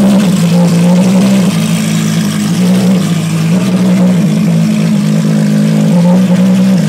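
Ferrari FXX's V12 race engine running steadily at idle, loud, its pitch lifting slightly right at the start and again near the end.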